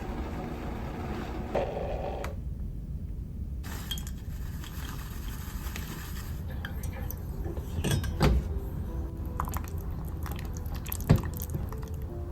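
Dishes and cutlery clinking and knocking as tableware is handled, with a couple of sharper knocks in the second half. Background music in the first two seconds.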